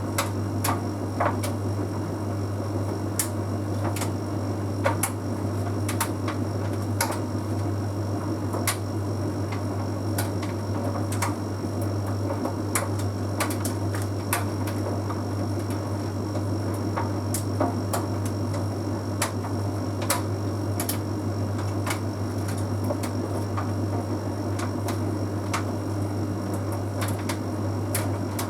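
Bosch Series 6 heat pump tumble dryer running mid-cycle: a steady low hum with a faint high whine over it, and irregular light clicks and taps about once a second as the load tumbles in the drum.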